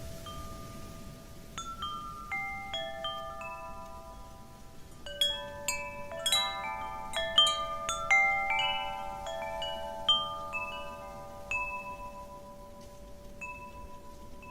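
Wind chimes struck at random by the wind, scattered notes that ring on and overlap, busiest in the middle, over a soft hiss of wind.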